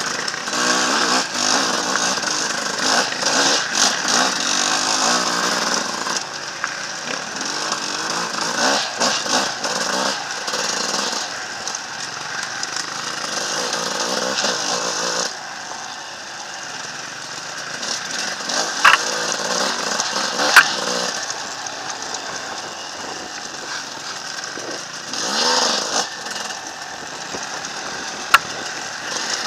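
Enduro dirt bike engine running and revving up and down on a rough trail, heard from on the bike. A few sharp knocks stand out in the second half.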